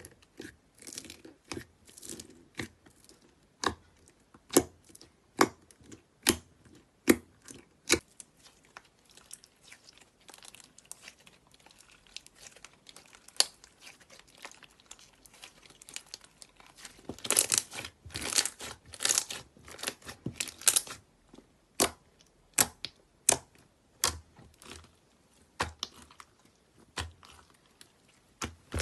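Slime being squeezed and poked by hand, giving irregular sharp pops and crackles, at times a few per second, that come thickest and loudest around two-thirds of the way through.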